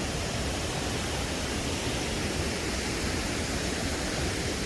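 Steady rushing of river water spilling over rocks.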